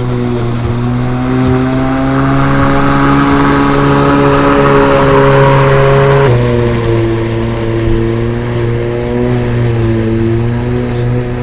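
Lawn mower running steadily while cutting grass. Its hum rises slightly over the first few seconds, then about six seconds in drops a little and loses some of its brightness as the load on the blade changes.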